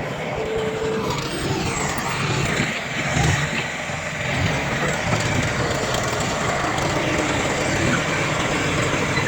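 Diesel engines of heavy earthmoving machinery, a bulldozer and dump trucks, running steadily at work, with a brief louder surge about three seconds in.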